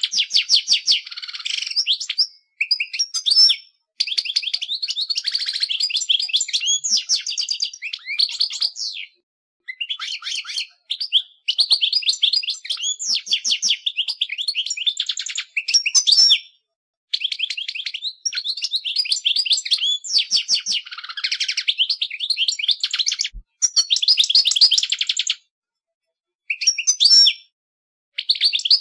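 European goldfinch (jilguero) singing: long phrases of fast, high twittering and trilled notes, separated by brief pauses of a second or so.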